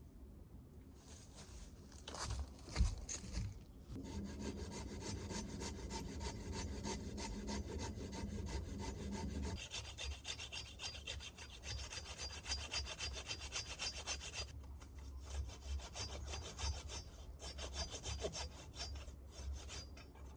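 A saw cutting into a wooden log with quick, even rasping strokes, starting about four seconds in: the cuts that make a Swedish torch.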